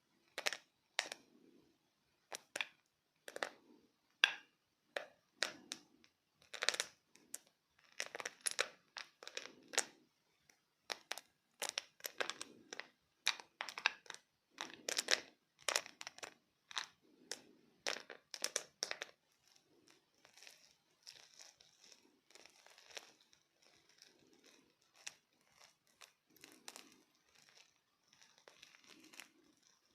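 Close-miked biting and chewing of chalk coated in clay paste. Dense, sharp, dry crunches through the first two-thirds, turning to softer, quieter crumbly chewing near the end.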